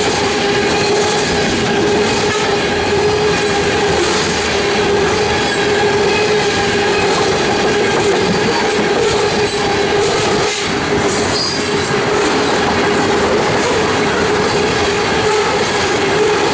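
Freight train rolling past, its cars clattering over the rails, with a steady high tone over the clatter.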